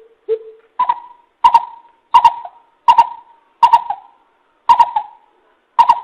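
Coucal (bìm bịp) calling, played as a trapping decoy recording: a steady series of about nine deep hoots, roughly one every 0.7 s. The first two are lower and the rest step up in pitch, each with a short echoing tail.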